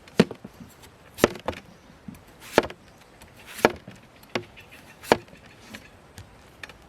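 Chopping: five hard blows, roughly one every second or so, with lighter knocks in between.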